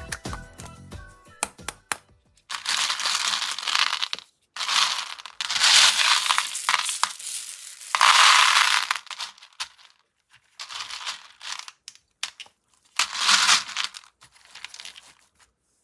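Music fades out in the first second or two. Then come several separate bursts of crinkling and tearing, typical of candy wrappers being opened, with quiet gaps between them.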